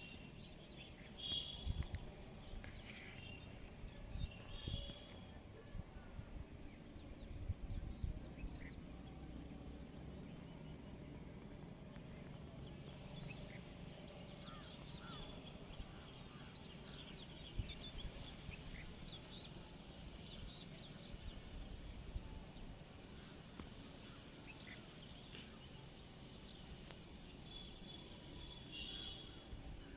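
Many birds calling and chirping in short, scattered notes, with a few louder clusters of calls, over a low rumble broken by several dull thumps in the first few seconds.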